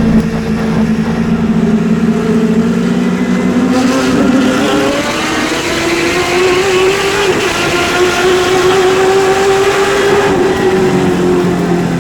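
Super late model's V8 racing engine under way on a short oval. The engine pitch climbs about four seconds in as it accelerates, holds high for several seconds, then drops back near the end as the throttle comes off.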